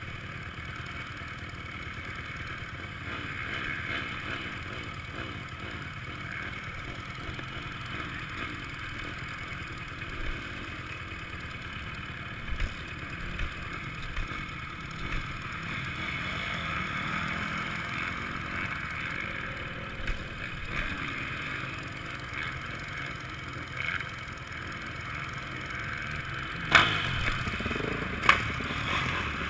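Honda CRF450 four-stroke single-cylinder motocross engine running under riding load, muffled as heard through a helmet-mounted GoPro housing, with clattering and two sharp knocks about a second and a half apart near the end.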